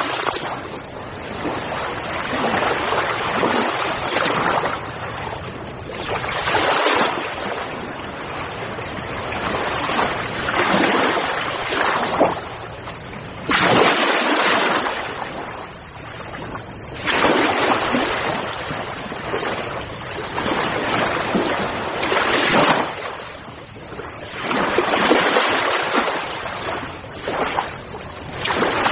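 Sea waves breaking and washing on the shore, the rush of surf swelling and falling back in repeated surges every three to four seconds.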